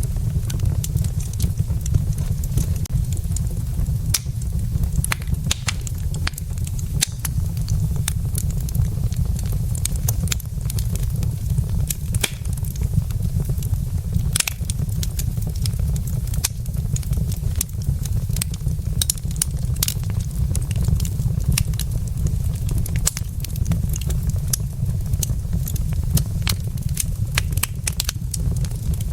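Wood logs burning in a fireplace: frequent, irregular sharp crackles and pops over a steady low rumble.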